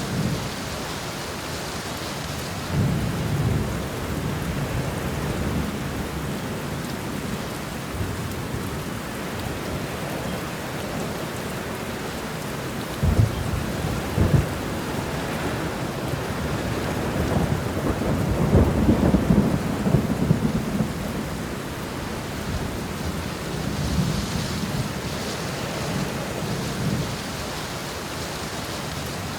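Steady heavy rain with thunder: a sharp crack about 13 seconds in, followed by a longer rolling rumble a few seconds later, and lighter rumbles near the start and near the end.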